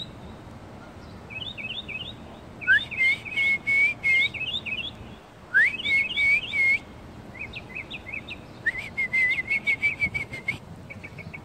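A songbird singing in a string of phrases of quick, high chirps that slide down in pitch. Two phrases open with a rising sweep, and the last runs into a fast trill, with short pauses between phrases.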